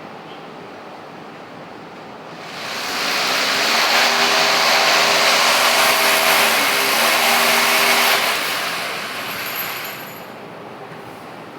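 A motor vehicle passing by: a noisy rush that swells up over a couple of seconds, holds, then fades away, with a few steady tones that dip briefly as it goes past.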